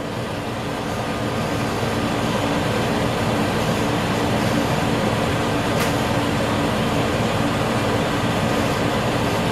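Diesel railcar engine running with a steady hum and rumble, heard from inside a railcar. It grows louder over the first couple of seconds, then holds steady.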